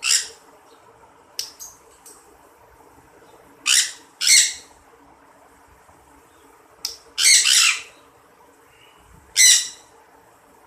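Birds giving harsh, raspy squawks: about seven calls at irregular intervals, some brief and some about half a second long, over a faint steady low hum.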